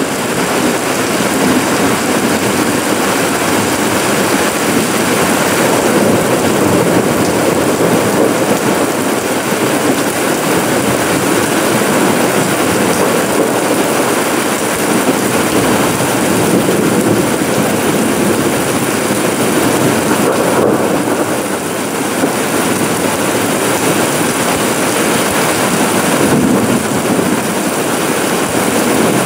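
Steady rain falling on a paved yard, a wall and plants: a loud, dense, even hiss. It dips slightly about two-thirds of the way through.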